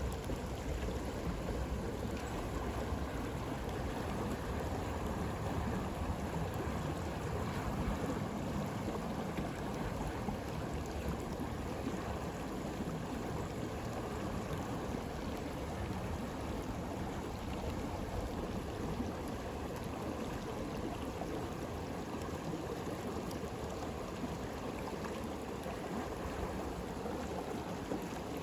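A stream flowing steadily: a constant, even rushing of water.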